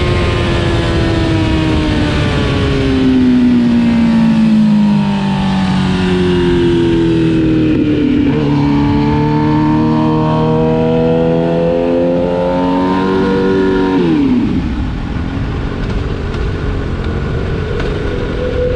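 Racing motorcycle engine heard onboard, its pitch falling over the first few seconds, then climbing in two long rises under throttle, with a sudden drop in pitch about fourteen seconds in as the throttle closes or a gear changes. A steady rush of wind noise runs under the engine.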